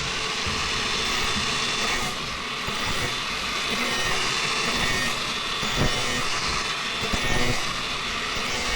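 A power tool running steadily under load, with a couple of brief knocks around six and seven seconds in.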